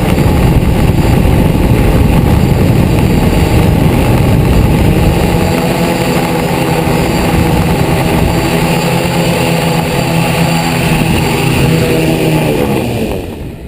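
Multirotor drone's motors and propellers, DJI Flame Wheel frame, buzzing loudly right by the camera. About halfway through the buzz settles into a steady hum of fixed pitch, then winds down and stops near the end.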